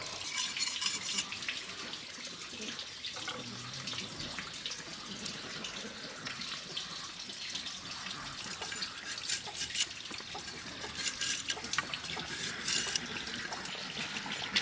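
Water running steadily with splashes and small knocks, like water from a tap into a sink or basin.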